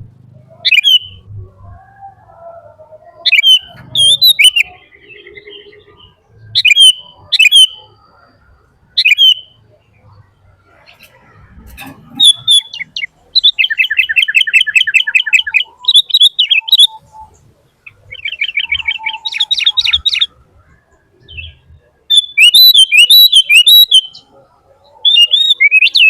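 A bird calling: short, sharp chirps, several in pairs, then rapid trills of about eight notes a second around the middle, and a loud burst of chattering calls near the end.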